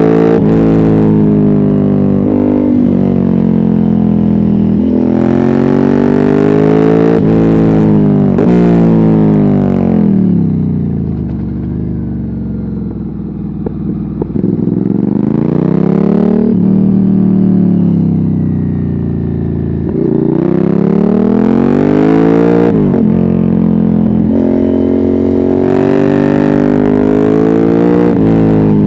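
Ducati Hypermotard 796's air-cooled L-twin engine through a Termignoni decat exhaust with no dB killer, accelerating hard through the gears: the pitch climbs, drops at each shift and climbs again. About ten seconds in it goes quieter and falls away on a closed throttle for a few seconds, then pulls hard again.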